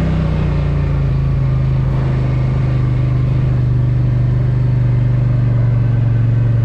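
Polaris Sportsman 1000 ATV engine running steadily, its pitch easing down a little in the first half-second and then holding even.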